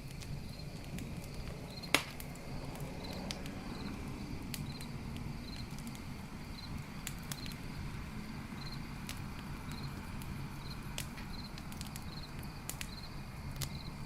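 Campfire crackling with scattered sharp pops, one loud pop about two seconds in, over crickets chirping in short, evenly repeated pulses.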